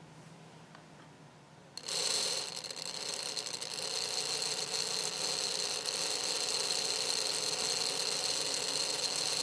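Small electric motor of an AC Gilbert #31013 model locomotive starting about two seconds in and running steadily with a high whine, powered from a power pack on test after its field magnet was re-magnetized; it now runs in the correct direction.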